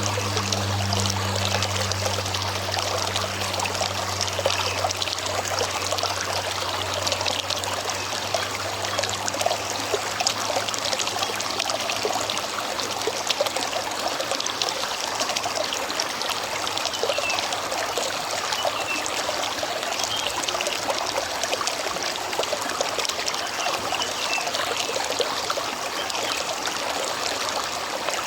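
Shallow river water running and babbling over stones, a steady dense trickling rush. A low, steady hum fades away over the first few seconds.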